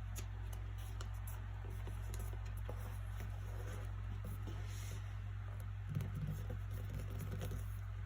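Steady low background hum with soft paper sounds from a book being handled: faint ticks and a brief rustle, then a short cluster of soft low thumps about six seconds in.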